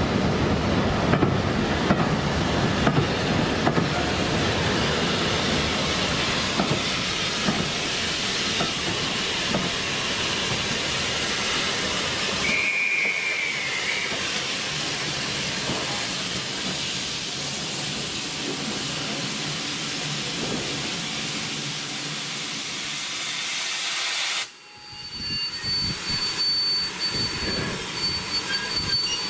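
Steam locomotive and train running with a steady loud hiss of steam, and a brief whistle about halfway through. After a sudden break near the end, wheels squeal on the rails.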